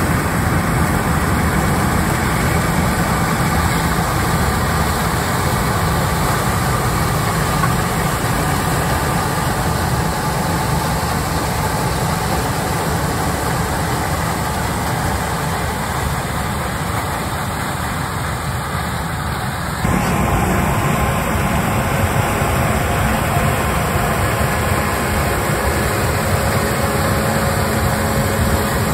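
Heavy harvesting machinery, combines and tractors, running in the field with a steady engine drone. The sound changes abruptly about two-thirds of the way through.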